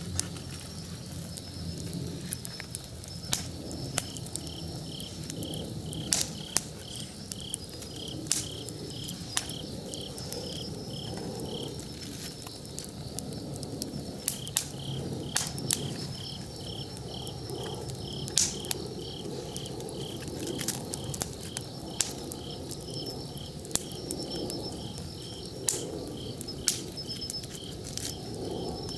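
Wood campfire crackling, with sharp irregular pops, over an insect chirping in steady pulses about two or three times a second that stops for a few seconds midway.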